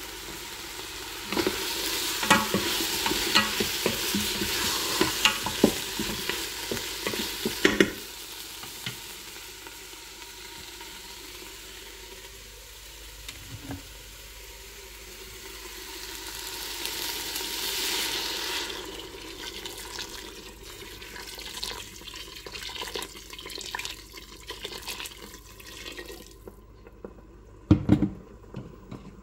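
Food sizzling as it fries in the Ninja Foodi multi-cooker's pot while being stirred, with clicks and scrapes of a utensil against the pot. The sizzle is loudest for the first several seconds, dies down, swells again midway, and a knock sounds near the end.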